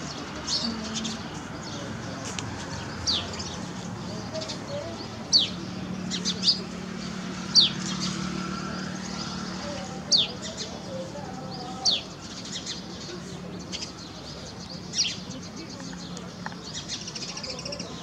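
Small birds chirping: short, sharp high notes, each dropping quickly in pitch, one every second or two, over a steady low hum.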